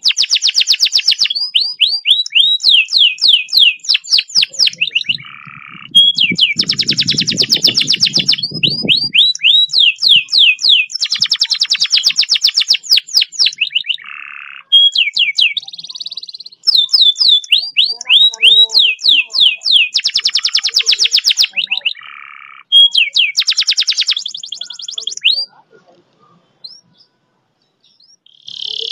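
Domestic canary singing long, fast rolls: phrases of rapidly repeated high notes, some as quick falling sweeps, each lasting a few seconds with short breaks between. The song thins to a few scattered notes near the end.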